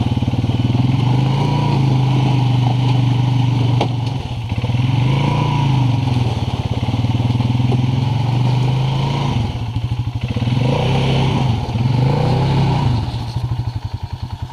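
ATV engine running as the throttle is worked, its pitch rising and falling several times, then dropping back to a slower idle near the end.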